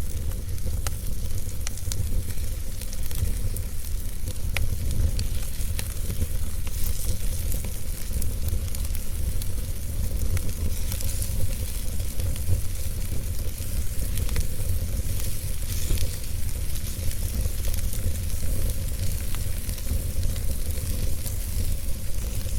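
A fire crackling, with scattered sharp pops and snaps over a steady hiss and a constant low rumble.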